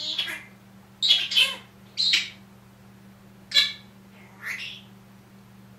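Senegal parrot squawking and chattering in five short, loud calls spaced about a second apart.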